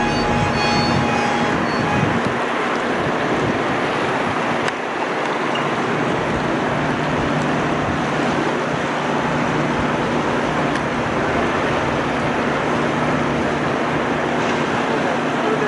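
Steady rushing noise of a tourist passenger train running on the rails, heard from aboard, with a faint high wheel squeal dying away in the first second.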